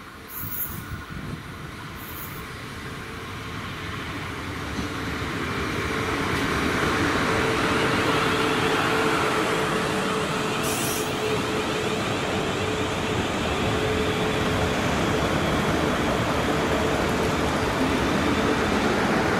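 South Western Railway Class 450 Desiro electric multiple unit running into and along the platform: the rumble of wheels on rail swells over the first several seconds and then holds steady and loud as the carriages pass, with a steady whine through the middle and a few brief high squeaks.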